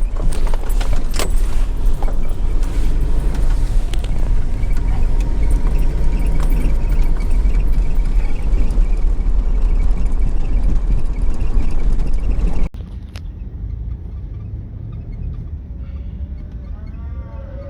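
Vehicle driving: a loud, steady low rumble of engine and road noise with scattered knocks and rattles, which cuts off suddenly about two-thirds of the way through. A quieter low rumble follows, with a brief warbling sound near the end.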